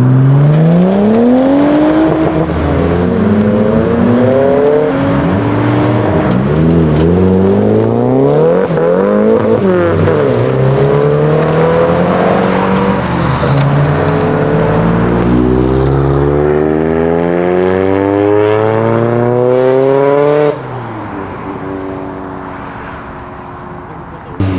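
Tuned Nissan Silvia's engine revving hard, its pitch climbing and falling over and over. About twenty seconds in it drops off suddenly and runs quieter with the revs falling.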